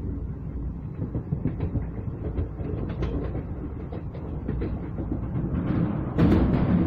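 Train running noise heard from on board: a low rumble of wheels on rail with irregular clanks and knocks. It gets louder about six seconds in as the train reaches the bridge.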